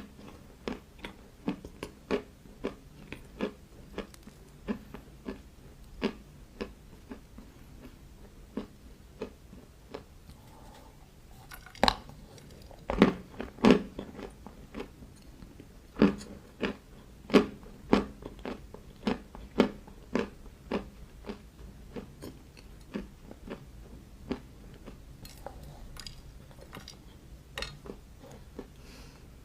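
Crunchy bites and chewing close to the microphone, likely dried clay being crunched, with a sharp crunch about every half second to second. The loudest crunches come about halfway through.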